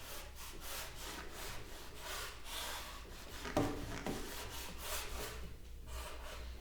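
Hand tool rubbing or scraping along a wooden speaker cabinet in quick repeated strokes, about three to four a second, with one louder knock about halfway through.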